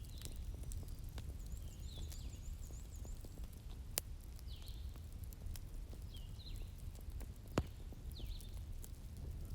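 Wood bonfire burning with a steady low rumble and scattered crackles, and two sharp pops, about four and seven and a half seconds in. A bird calls over it, a short high chirp every second or two, with a brief high trill near two seconds.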